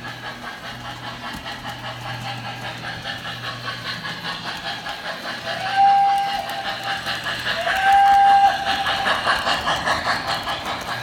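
MTH RailKing B6 0-6-0 steam switcher's Proto-Sound 3.0 sound system playing steady steam chuffing, with two whistle blasts about six and eight seconds in, each sliding up in pitch as it starts.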